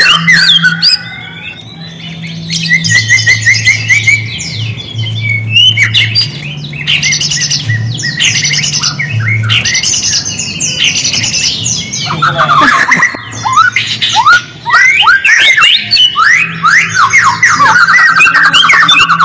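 White-rumped shama (murai batu) singing loudly and without let-up: fast trills, quick whistled notes sliding up and down and harsh chattering, easing briefly about 2 seconds in and again near 14 seconds. A low steady hum runs beneath the song.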